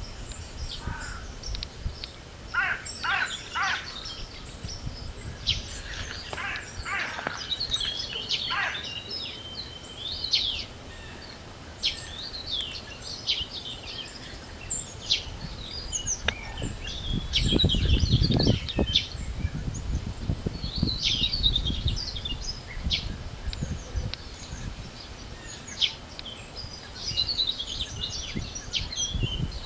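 Spring birdsong: many birds chirping and trilling at once, over a low gusting rumble of wind on the microphone that swells strongly a little past the middle.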